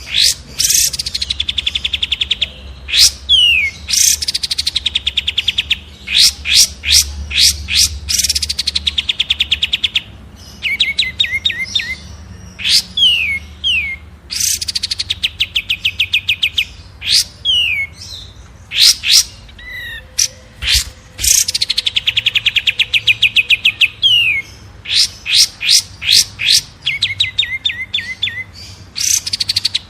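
Cage songbird singing: a few sharp high chirps, then a long, very fast trill that slides down in pitch, and short down-slurred whistles. The same phrase sequence repeats about every five to six seconds.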